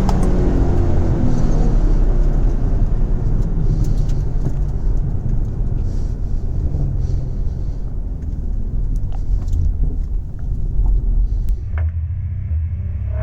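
2011 Ford Mustang V6 at speed just after a quarter-mile acceleration run, a low engine and road rumble easing off gradually as the car slows. About 12 seconds in it drops to a quieter, steadier engine note.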